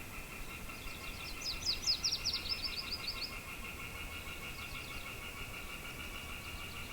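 A songbird sings a fast run of high down-slurred notes about a second in, lasting some two seconds, with a few fainter notes later. Underneath runs a steady rapid trill, with light wind.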